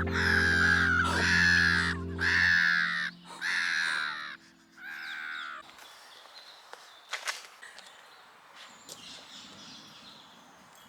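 A crow cawing five times in a row, with harsh, drawn-out caws about a second apart. Background music with long held notes plays under the caws and stops about halfway through.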